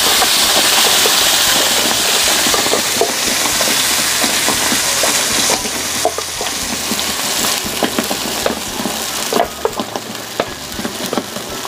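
Wet blended rawon spice paste poured into hot oil in a wok, sizzling loudly with scattered crackles and pops. The sizzle is strongest at first and dies down in steps, around the middle and again near the end, as more paste goes in and the oil is covered.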